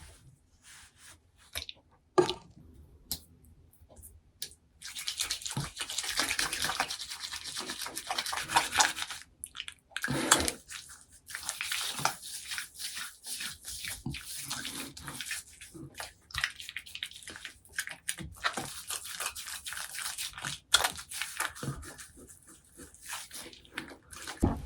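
Toothbrush scrubbing in quick, repeated strokes, starting about five seconds in after a few scattered clicks and knocks.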